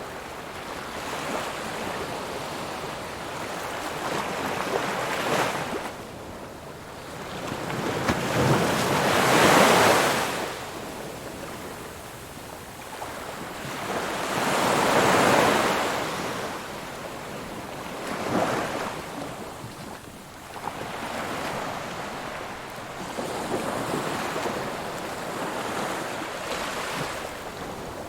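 Ocean surf: waves breaking and washing up the shore in slow swells. The biggest breakers come about nine and fifteen seconds in, with a smaller one soon after.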